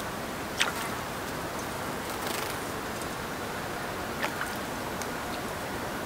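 Steady outdoor hiss with two short sharp clicks from small birds at a shallow water bowl, about half a second in and just after four seconds, and a brief soft flutter around two seconds as a chickadee leaves.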